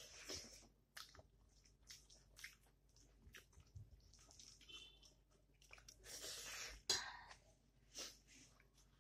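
Quiet, close-up chewing of a mouthful of rice and dal, with soft wet lip smacks and short clicks scattered throughout. A longer hiss comes about six seconds in, followed by a sharp click.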